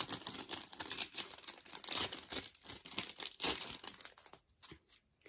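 Plastic packaging crinkling as it is handled and opened to unwrap a card, dense for about four seconds and then down to a few light clicks.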